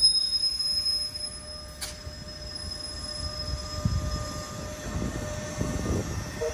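NJ Transit electric locomotive and Multilevel coaches rolling slowly through the station: a high wheel squeal or whine that fades about two seconds in with a sharp click, then low rumble of wheels and locomotive growing louder as the locomotive draws near.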